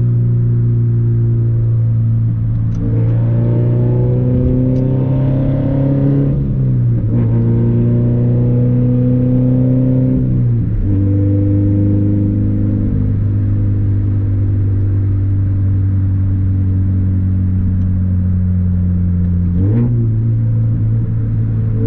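Scion FR-S flat-four engine running through an exhaust with the muffler and resonator removed, pulling under way: the note climbs slowly, drops twice as it upshifts about six and a half and ten and a half seconds in, holds steady for several seconds, then jumps up again about twenty seconds in.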